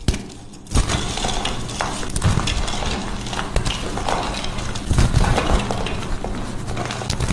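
A block of dyed gym chalk being crushed, crunching and crumbling with many small crackles. The crunching starts about a second in and goes on without a break.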